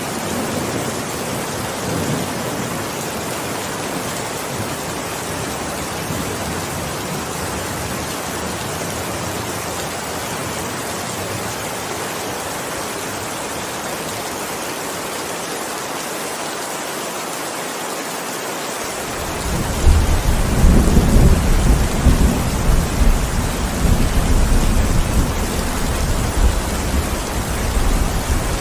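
Heavy rain falling steadily with an even hiss. A low thunder rumble fades in the first couple of seconds, then a long rolling rumble of thunder rises about two-thirds of the way through and keeps rolling to near the end.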